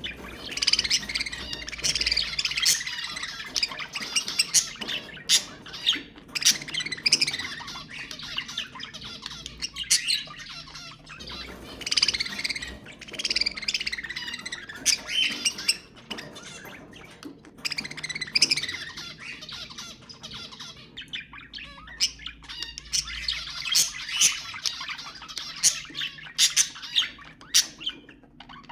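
Budgerigars chattering: a dense warble with sharp squawks and chirps, coming in waves of several seconds with short lulls between.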